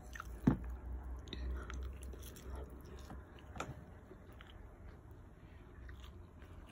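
Faint close-up chewing of a mouthful of chicken and rice, with soft mouth clicks and a couple of sharper ticks.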